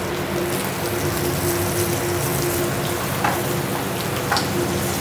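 Veal saltimbocca frying prosciutto side down in hot olive oil in a sauté pan, a steady sizzle, with a steady hum underneath and a couple of light clicks near the end.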